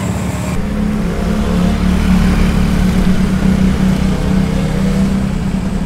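Small motorcycle engine running, its pitch rising a little and easing off again.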